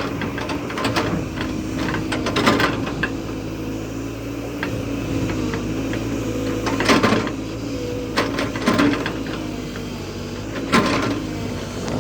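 A JCB backhoe loader's diesel engine running steadily under working load, with several short bursts of rattling noise from the machine at work, the loudest about seven seconds in.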